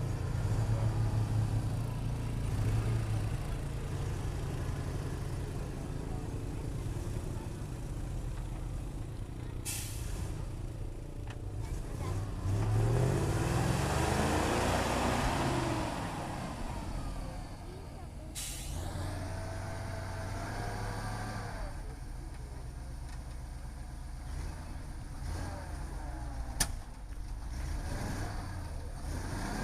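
ZIL-131 army truck's V8 petrol engine running under load, revving up and back down about halfway through, which is the loudest part. There are two short hisses of released air, about ten and eighteen seconds in, and a single sharp click near the end.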